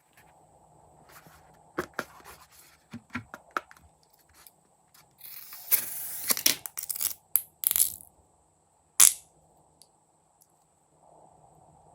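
Hands handling slime-making materials: scattered clicks and crinkles, then about three seconds of louder dense rustling and crackling, and one sharp snap about nine seconds in.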